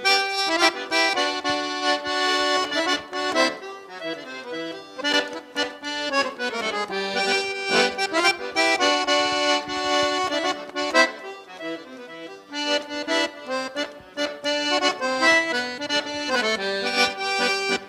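Accordion (gaita) playing an instrumental break in a lively traditional gaúcho song, running quick melodic phrases over sustained chords, with no singing.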